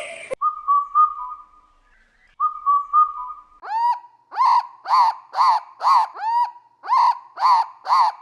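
Bird calls: two held whistled notes, then a run of short rising whistled notes repeated about twice a second.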